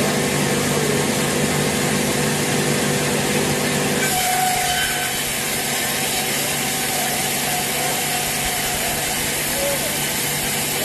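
Sawmill saw cutting through a large teak log, with the mill's motor running steadily. About four seconds in the low hum fades and a brighter, higher hiss takes over.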